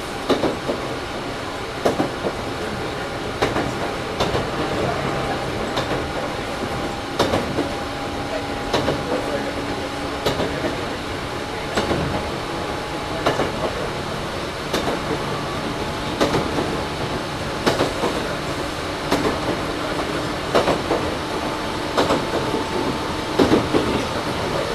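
Toyohashi Railway 1800 series (ex-Tokyu 7200 series) electric train heard from inside its motor car while running at speed. The wheels click over rail joints about every second and a half above a steady running whine and rumble.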